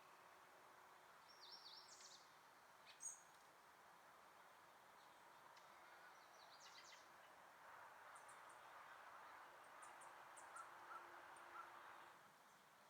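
Faint, scattered chirps of small songbirds over a soft steady background hiss, with one sharp tick about three seconds in.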